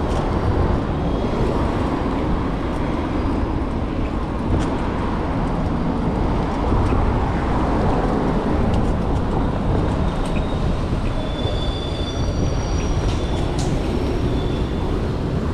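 Steady, loud rumble of vehicle and road noise, with a few brief high-pitched squeals near the end.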